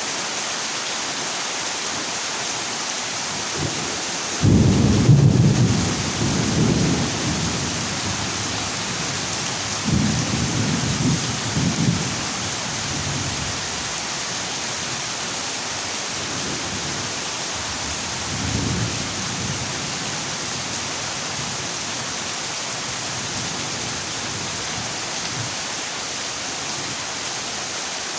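Heavy rain drumming steadily on a tin roof, with thunder: a loud rumble breaks in suddenly about four seconds in and rolls for a few seconds, a second rumble follows around ten seconds in, and a fainter one comes near the middle.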